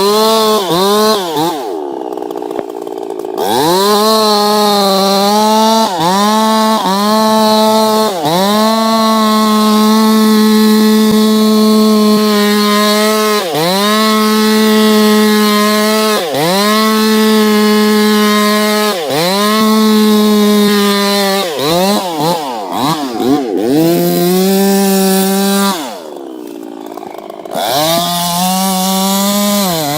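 Two-stroke chainsaw cutting wood at full throttle. The engine note holds high, then dips and climbs back again and again, every second or few, as the throttle is let off and squeezed. It drops lower and quieter for a moment near the end.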